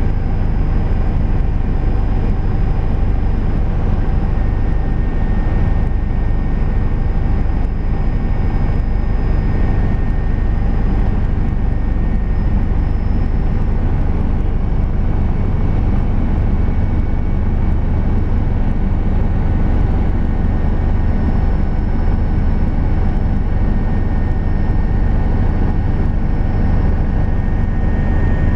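Helicopter in flight: a steady, loud rumble of rotor and engine with a faint high whine above it, unchanging throughout.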